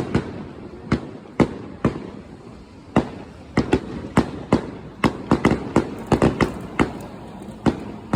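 Fireworks show: a rapid, irregular run of sharp bangs and crackles, several a second, thinning briefly in the middle and thickening again in the second half.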